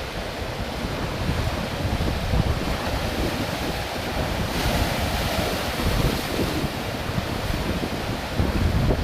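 Ocean surf washing over a rocky shore, with wind buffeting the microphone in low gusts. The surf hiss swells louder about halfway through as a wave comes in.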